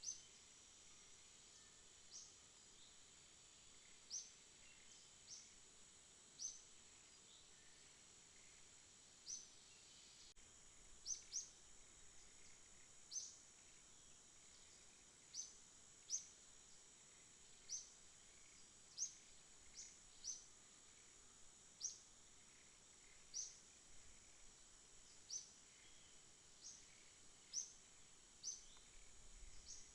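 Faint night ambience: a steady, high-pitched insect drone, with short high chirps repeating every one to two seconds.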